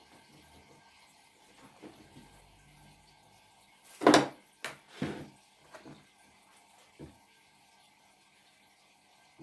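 A few knocks and clunks of household objects being handled and set down during tidying, the loudest about four seconds in, followed by several lighter ones.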